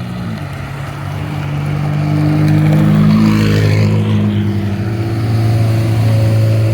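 A McLaren and a Lotus driving past with engines running, louder as they approach. The sound peaks about three seconds in and swells again near the end, with a drop in engine pitch shortly after the start.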